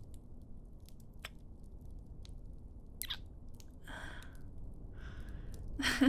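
Close-up wet French-kissing sounds: soft mouth clicks and smacks with breaths between them, the loudest near the end, over a steady low background rumble.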